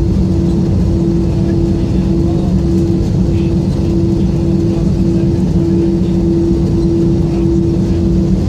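Airbus A320 cabin noise: a steady low rumble of engines and airflow with a constant droning hum.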